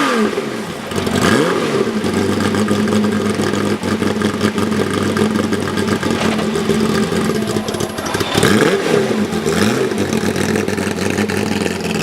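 Race car engines revving, their pitch rising and falling as the cars go by near the start and again around three-quarters of the way through. A steady engine drone holds in between.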